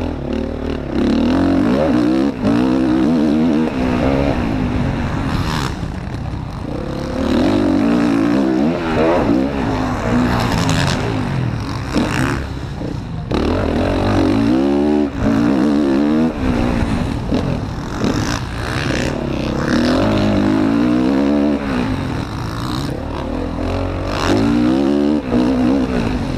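Motocross bike engine heard close up from an onboard action camera, revving up and falling back again and again every few seconds as the rider accelerates, shifts and brakes around the track. Rattling and knocks from the bike run under it.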